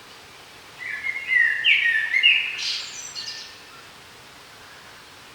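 A songbird sings one phrase of about two and a half seconds, its clear notes stepping up in pitch toward the end, over a steady faint background hiss.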